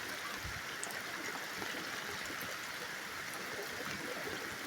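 Steady rain falling, with water trickling and running: an even hiss, and no thunder.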